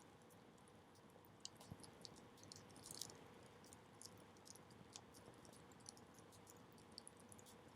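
Wood fire crackling faintly: small, irregular pops and snaps over a low, steady hiss.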